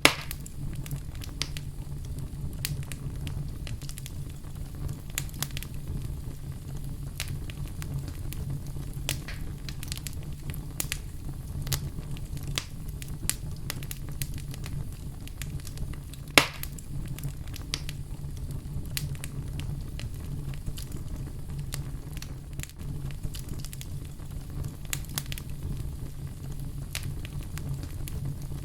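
Wood fire burning in a fireplace: a steady low rumble of flame with frequent sharp crackles and pops, one louder pop about midway.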